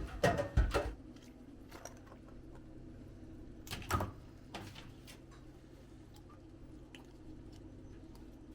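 Knocks and thuds of something being handled: two loud ones close together at the start, another about four seconds in, and light clicks in between.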